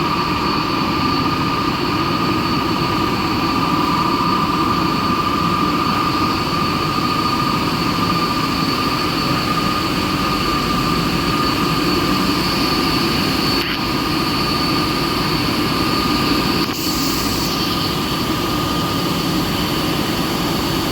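Wire drawing machinery of a welding wire production line running steadily, a constant whine over a dense mechanical hum. About three-quarters of the way through, a short high hiss rises above it.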